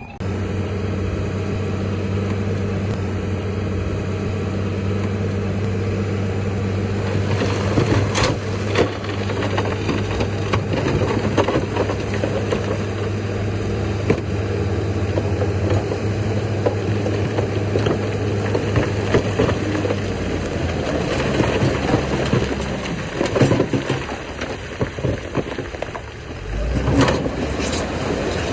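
Heavy diesel earthmoving machinery running under load, its steady engine note shifting about 20 seconds in, with frequent metallic clanks and rattles and a louder low rumble near the end.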